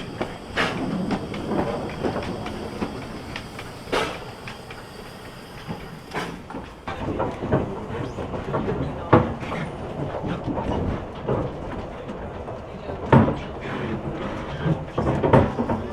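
Vale of Rheidol narrow-gauge steam train under way, its carriages rolling over the track with a steady rumble. Irregular sharp clanks and knocks from the wheels and rail joints come every second or few, the loudest about nine and thirteen seconds in.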